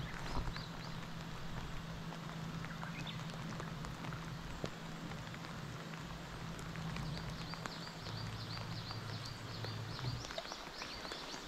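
Heavy rain falling on the reservoir's surface, under the steady low hum of a bow-mounted electric trolling motor that drops to a lower tone about eight seconds in and cuts out near the end. In the last few seconds a bird calls with a quick run of high, repeated chirps.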